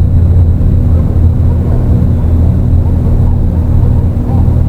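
Dark ambient electronic drone: a loud, steady low rumble of sustained deep tones under a rough, noisy texture, with a faint thin high tone above it.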